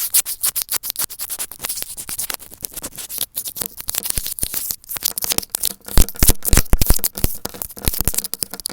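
Earphone microphones being rubbed, scratched and tapped directly and vigorously: a dense, irregular crackling and scratching, with a cluster of heavier thumps around six to seven seconds in.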